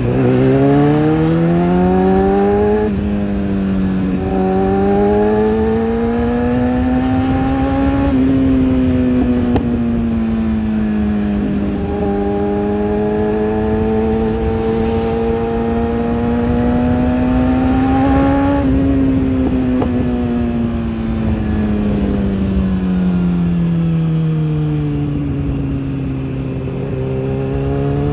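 Kawasaki ZX-6R inline-four engine and exhaust running under throttle. The pitch climbs, dips sharply about three seconds in as if for a gear change, then rises and falls slowly several times as the throttle is opened and eased, lowest near the end before climbing again.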